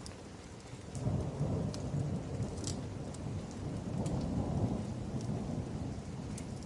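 Thunder rumbling low for several seconds, starting about a second in, over a steady hiss of rain. Sharp crackles from a wood fire are scattered throughout.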